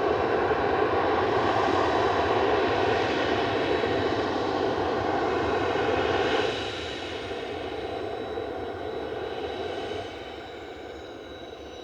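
Jet aircraft engines running steadily. The sound drops in two steps, about six and a half and ten seconds in, and a high whine falls slowly in pitch near the end.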